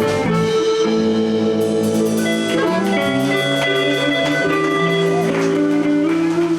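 Live blues band of electric guitars, bass and drums playing an instrumental ending to a song, with long held notes moving step by step and a few drum hits.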